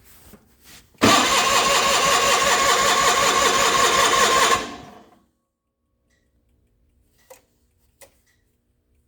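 John Deere 420 two-cylinder gasoline engine cranked by its starter for about four seconds on a cold start with the choke out, turning over in an even rhythm without catching, then spinning down. Two light clicks follow a few seconds later.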